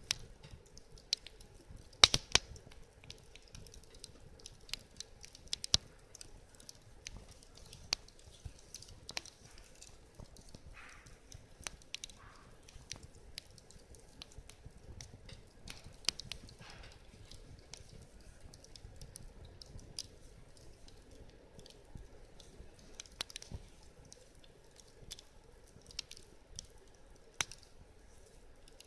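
Wood fire crackling: irregular sharp pops and snaps over a low hiss, the loudest two close together about two seconds in.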